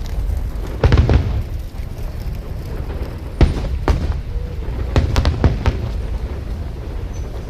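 Aerial fireworks shells bursting with loud booms: one about a second in, two close together between 3.5 and 4 s, and a quick cluster around 5 seconds. A low rumble carries on between the bursts.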